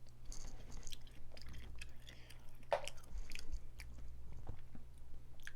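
Close-up eating sounds of a person eating a crawfish seafood boil: chewing and crunching, with many short clicks and crackles. There is one louder sound a little before the middle.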